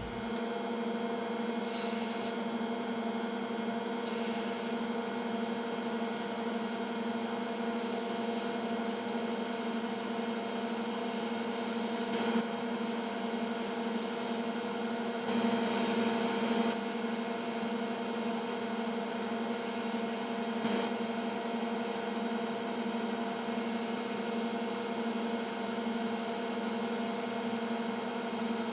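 Hot-air rework station blower running steadily with a humming drone, used to reflow a logic-board IC's pins back into place.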